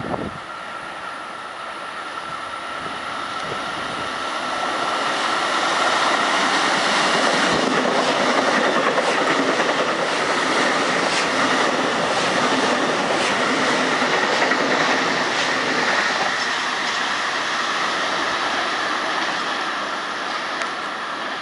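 Budd M-3 electric multiple-unit commuter train passing through the station without stopping: a steady rumble of wheels on rail with a high whine over it, rising as the train arrives. Rapid clicks over the rail joints come while the cars pass close by, and the sound eases near the end.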